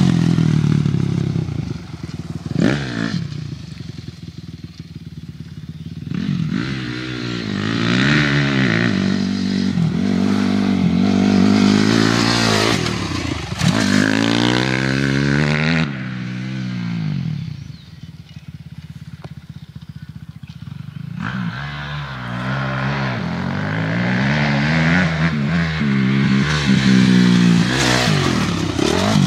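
Dirt bike engine revving up and down repeatedly as the bike is ridden. It fades twice as the bike moves away and grows loud again as it comes back.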